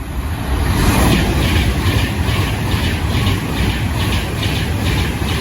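Class 390 Pendolino electric express passing through the station at speed: a loud rush of wheels on rail that swells about a second in. Over it runs a steady clatter of wheel clicks, about two or three a second.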